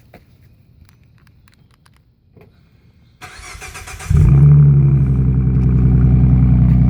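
2015 Ford Mustang's 3.7-litre V6 with a Flowmaster Outlaw Series axle-back exhaust being started. The starter cranks for about a second, the engine catches with a loud flare about four seconds in, then settles into a steady, loud idle through the exhaust.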